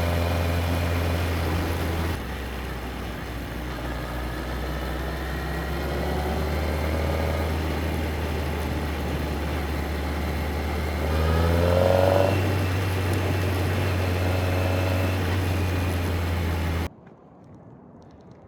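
Yamaha XJR1300's inline-four engine running under way, its pitch rising twice as the bike accelerates, loudest on the second pull. The sound cuts off suddenly near the end.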